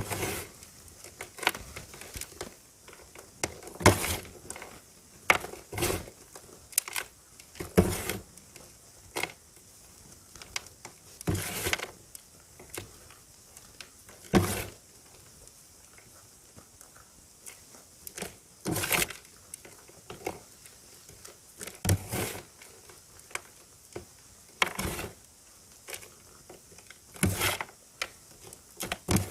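Blocks of gym chalk being crushed and crumbled, giving crunchy crumbling sounds: irregular crunches every second or two, some sharp and short, a few drawn out for about a second.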